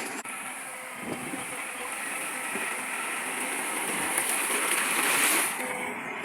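Heavy earthmoving machinery at work: a steady, noisy machine sound that grows louder about five seconds in, then eases.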